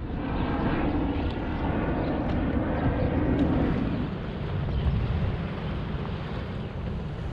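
Strong wind buffeting the microphone, with rushing noise from wind and choppy water around the inflatable kayak; the rushing is louder for the first four seconds, then eases.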